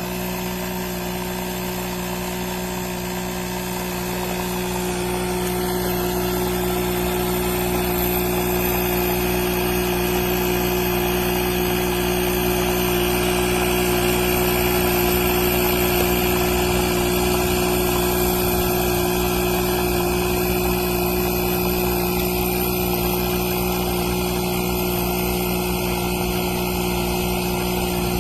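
Inzeetor ITI-001 12V portable tire inflator's compressor running with a steady hum, growing a little louder over the first several seconds and then holding.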